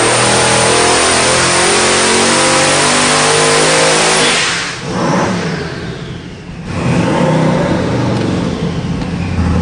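Twin-turbocharged 388-cubic-inch LSX V8 on a full-throttle power pull at about 28 pounds of boost, its pitch climbing for about four seconds. The throttle then closes with a falling whine, and the engine drops back to a steady idle about seven seconds in.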